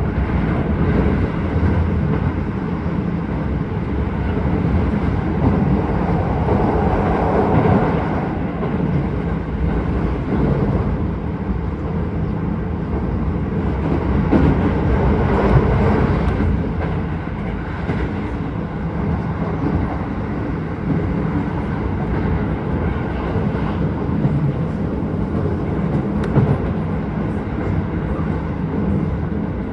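Keisei 3000-series electric train running at speed, heard from inside the passenger car: a steady rumble of wheels on rail and running gear, swelling louder a couple of times.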